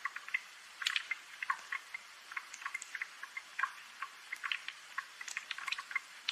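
Rain dripping: many small, irregular drops ticking and plinking several times a second, with no low rumble beneath them.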